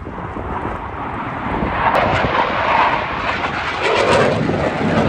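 Jet aircraft engine noise, a loud rushing sound that swells about two seconds in and stays strong as the aircraft passes.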